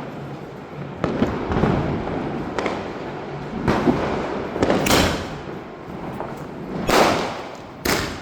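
A multi-shot sky-shot firework cake firing: its aerial shells burst overhead one after another with sharp bangs, roughly one a second, the loudest near the end.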